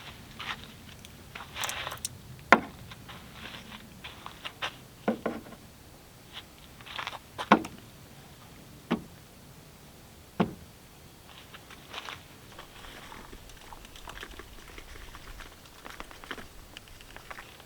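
Handling noises: scattered sharp clicks and knocks, about a dozen, with short bouts of rustling between them.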